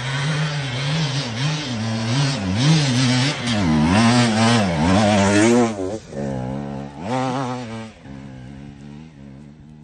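KTM EXC enduro dirt bike engine revving, its pitch rising and falling again and again under the throttle. It drops briefly about six seconds in, rises once more, then settles to a quieter, low run near the end.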